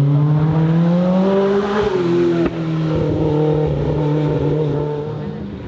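Race car engine accelerating hard, its pitch climbing for about two seconds, then a sudden drop in pitch and level about two and a half seconds in, like an upshift, after which the engine holds a steadier note and fades away.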